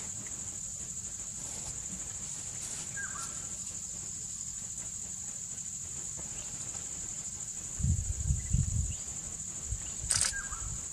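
Insects in the wild shrilling steadily in one high continuous tone, with a couple of short chirps. About eight seconds in, a few low rumbling bumps rise over it for about a second.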